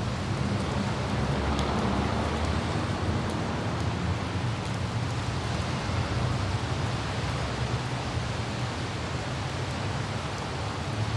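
Light rain falling steadily over a constant low rumble of road and wind noise from driving, with a few faint drop ticks.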